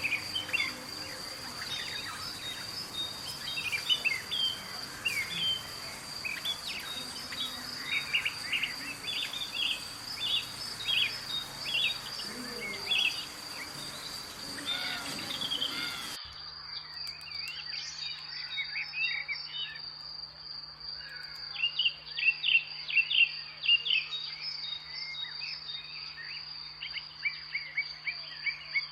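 Small birds chirping over and over, short quick notes, against a steady high-pitched insect drone. The background changes abruptly about halfway through.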